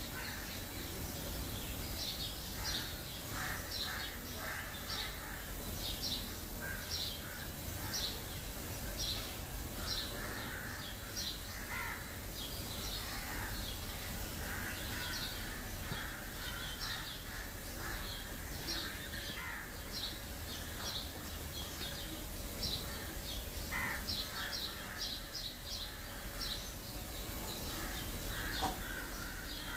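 Birds calling: a steady run of short high chirps repeating throughout, with lower, harsher calls now and then.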